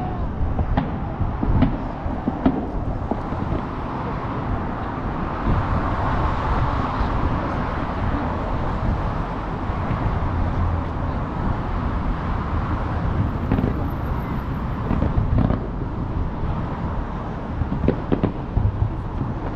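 Fireworks display going off in a dense barrage: continuous low booming rumble with many sharp bangs and crackles mixed in.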